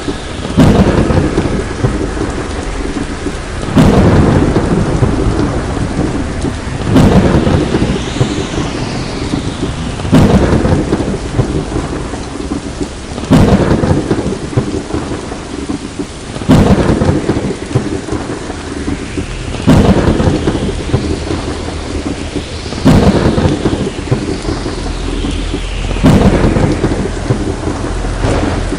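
A thunderstorm with steady heavy rain. Sharp thunderclaps crack and rumble off at even intervals, about one every three seconds, in a looping pattern.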